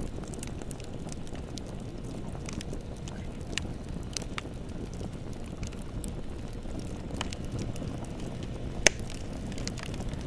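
Bonfire burning, with scattered wood crackles over a steady low rumble and one sharp, loud pop near the end.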